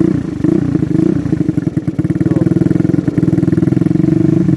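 Yamaha Mio scooter's single-cylinder engine running steadily through an aftermarket racing exhaust silencer, with an even, rapid firing rhythm.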